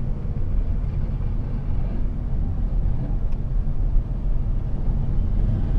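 A car's engine running with a steady low rumble as the car rolls slowly, heard from inside the cabin.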